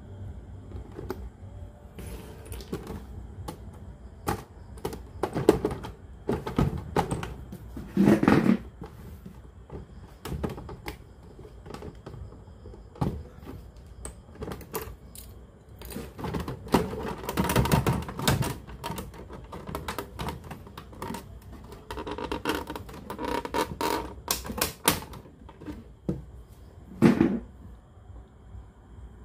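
Irregular clicks, taps and knocks of hands and small tools handling a cassette radio, with a few louder clattering bursts.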